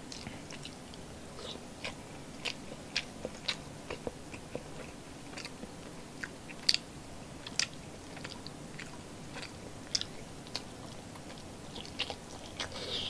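Close-miked eating sounds of someone chewing soft milkfish belly fat and rice: irregular wet mouth clicks and smacks, a few sharper ones in the middle.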